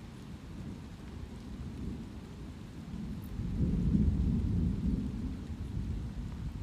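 Steady light rain with a roll of distant thunder: a low rumble that swells about three and a half seconds in and slowly dies away.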